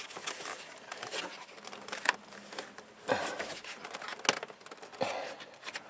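Handling noise: rustling with scattered light knocks and clicks, a few sharper ones about two, three and four seconds in.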